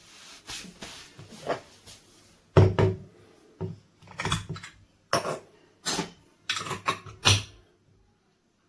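A series of about ten short knocks and clunks of hard objects being handled and set down at irregular intervals, two of them louder than the rest.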